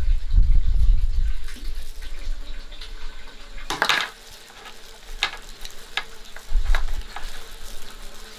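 Kitchen work: water pouring or splashing for about the first second and a half, then a few separate clinks and knocks of utensils and dishes, the loudest about four seconds in.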